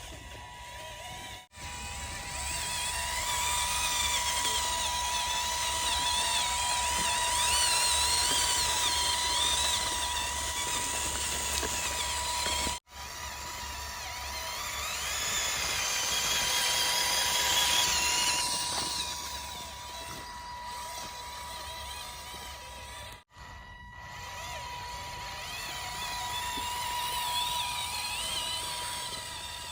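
Small electric gear motors of a homemade RC model tractor whining as it drives, their pitch wavering up and down as the speed changes. The sound cuts out abruptly three times.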